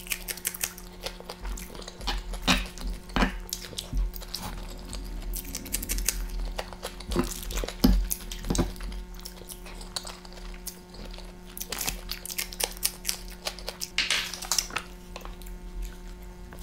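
Close-miked eating: crunchy bites of a raw green chilli and wet chewing of instant noodles, heard as many sharp clicks and smacks, with a few louder crunches.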